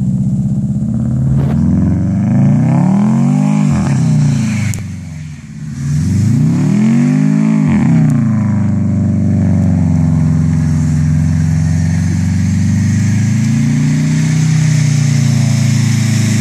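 Subaru WRX wagon's turbocharged flat-four engine revving hard as the car spins its wheels and slides through snow. The revs climb and fall twice in the first eight seconds, with a brief drop about five seconds in, then hold high and fairly steady.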